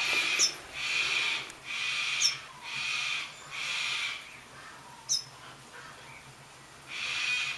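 A bird gives a series of harsh, rasping calls, about one a second, pausing for a couple of seconds before one more. Short, sharp high chirps come in between.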